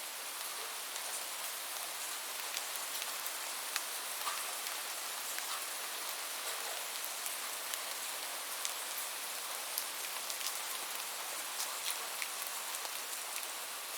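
Steady rain: an even hiss of falling rain with many small, sharp drop ticks scattered through it.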